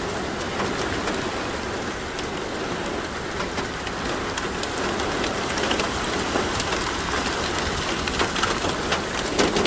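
Heavy thunderstorm downpour with peanut-sized hailstones striking: a steady hiss of rain dotted with many sharp ticks of hail hitting.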